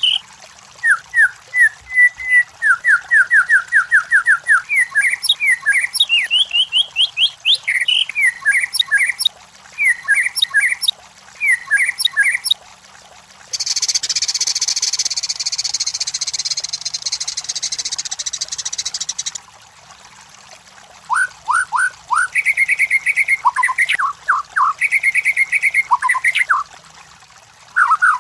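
White-rumped shama (murai batu) singing: fast runs of repeated clear whistled notes, phrase after phrase. In the middle, the whistling gives way to a steady harsh, high buzzing for about six seconds, and then the repeated notes start again.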